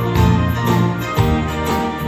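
Live band music: a pop vocal-instrumental ensemble playing, with guitar and bass prominent and the chords changing about every half second.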